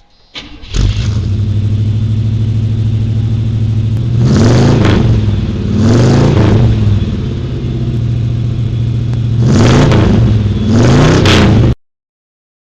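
Car engine starting and idling, blipped four times with revs that rise and fall. It cuts off abruptly near the end.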